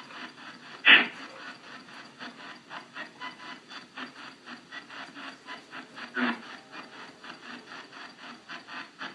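Spirit box radio sweeping through stations: a steady, chopped hiss of static at about three to four pulses a second. There is a louder burst about a second in and another about six seconds in.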